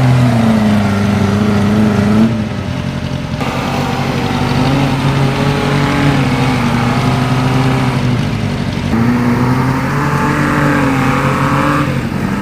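Off-road vehicle engine running loud and revved up and down, its pitch rising and falling as it works through mud.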